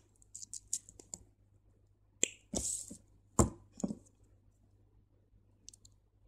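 Small sharp clicks and ticks with a brief rustle partway through: crystal beads and beading thread being handled and pulled by hand.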